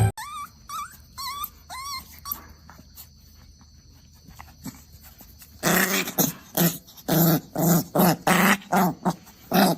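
A dog makes several short, high whines that rise and fall in pitch. After a quieter pause of a few seconds it breaks into a loud run of rough, rhythmic growly vocal pulses, about two or three a second.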